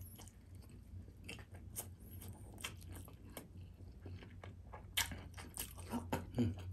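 Close-up chewing of beef rendang and rice eaten by hand: wet mouth clicks and smacks throughout, with the sharpest smacks about five seconds in and just before the end as another mouthful goes in.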